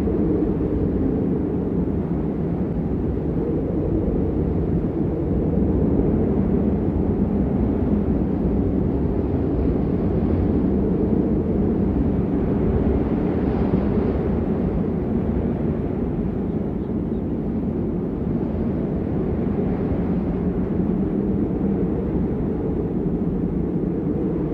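Steady heavy rain, a dense, even rushing noise weighted toward the low end.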